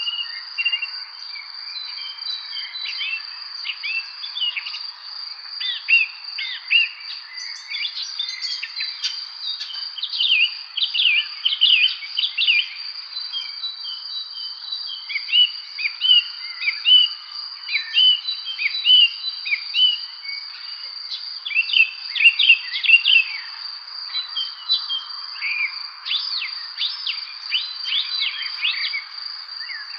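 Songbirds singing in many short, overlapping phrases over a steady, unbroken high-pitched insect trill. The birdsong comes and goes, busiest about eight to thirteen seconds in and again near the middle and toward the end.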